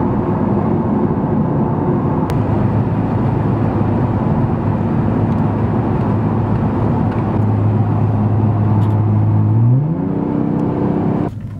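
Car engine and road noise while driving: a steady engine hum under an even roar. About ten seconds in, the engine note climbs quickly and holds at a higher pitch.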